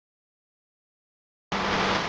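A small electric fan motor starts running with a steady whir and hum, cutting in suddenly about one and a half seconds in after total silence.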